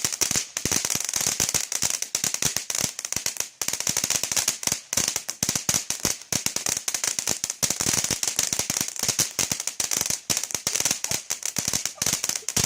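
Fireworks crackling: a dense, continuous run of rapid sharp pops and bangs, many each second.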